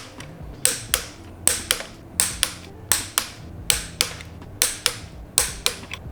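Sharp metallic clicks in quick pairs, repeating steadily a little faster than once a second, from a hand wrench tightening the crankshaft main bearing cap bolts on the engine block.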